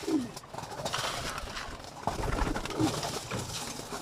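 Pigeons cooing in the loft: several short, low, falling coos, with faint scattered clicks and shuffling in the background.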